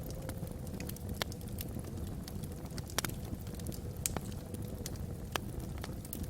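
Log fire burning in a fireplace: sharp crackles and pops scattered over a low steady rumble, the loudest pop about three seconds in. A faint steady whistle of wind across the chimney runs underneath.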